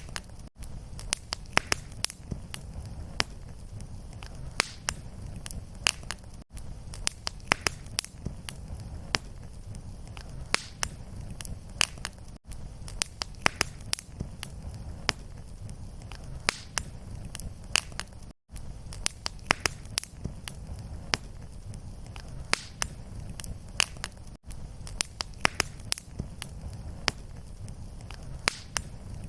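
Fireplace fire crackling: frequent sharp pops and snaps over a steady low rumble of flames, with a brief dropout about every six seconds.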